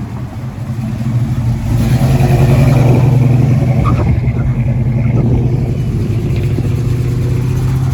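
A car engine running close by, getting louder about a second in and then holding a steady low tone.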